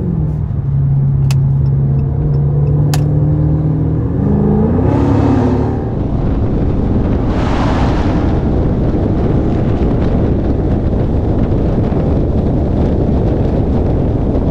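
Dodge Charger's Hemi V8 heard from inside the cabin, droning steadily at highway speed, then rising in pitch as it accelerates about four seconds in. From about six seconds on, steady wind rushing over the microphone with road noise covers everything.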